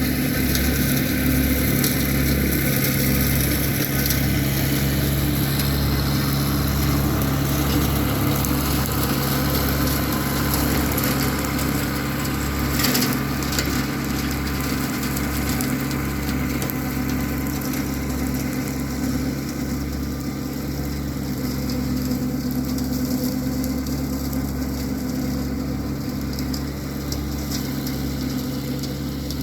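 Massey Ferguson 1725 compact tractor's 25 hp diesel engine running steadily under load while its 4-foot brush hog rotary cutter cuts brush, with one brief sharp knock about 13 seconds in.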